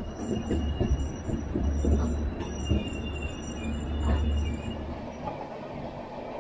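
Double-decker passenger train running on the rails: a steady rumble of wheels and coach, with thin high-pitched wheel squeals coming and going and a few short clicks. The low rumble eases about five seconds in.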